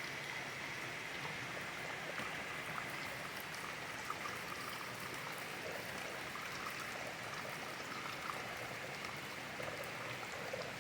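Steady heavy rain with water running and splashing, and scattered drops ticking close by.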